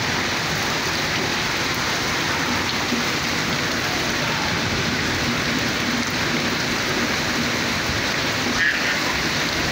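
Monsoon rain falling steadily on a concrete courtyard, an even hiss of rain with no breaks.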